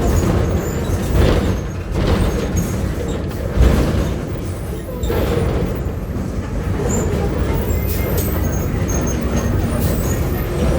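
Engine of a Volkswagen 17-230 OD city bus running on the move, heard on board as a steady low rumble, with a few knocks and rattles from the bus body.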